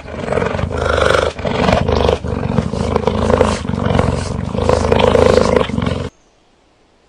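A large animal roaring loudly in a run of rough, pulsing roars, cut off suddenly about six seconds in.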